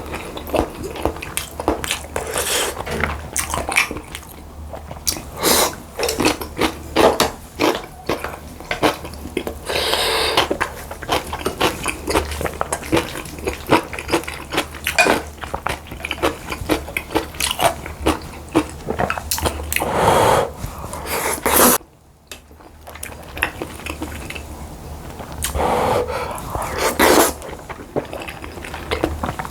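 Close-miked eating sounds: chewing and biting of food, with spoon and chopsticks clicking against dishes, in an irregular run of short clicks and noisy bursts.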